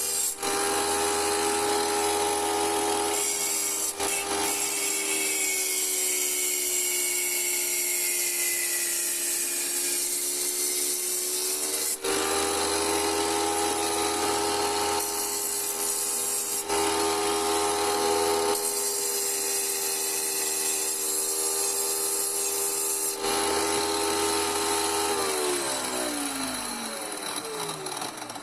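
Electric wet tile cutter running steadily, its water-cooled blade grinding through a glass bottle, the gritty cutting noise coming and going as the bottle is fed in. Near the end the motor is switched off and winds down with a falling pitch.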